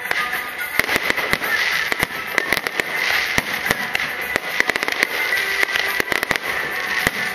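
Aerial fireworks going off: a dense, irregular run of sharp bangs and pops over continuous crackling.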